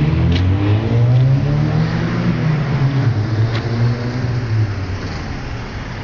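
Seat Ibiza with a sport exhaust accelerating hard: the engine note climbs in pitch, then fades over the last second or two as the car draws away.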